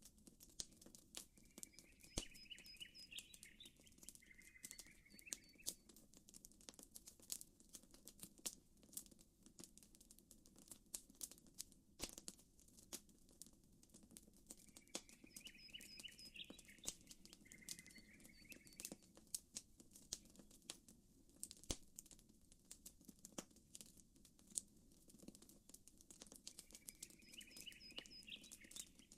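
Faint crackling campfire: frequent sharp pops and snaps over a low steady rush. A bird's short two-part chirping phrase comes three times, about every 13 seconds.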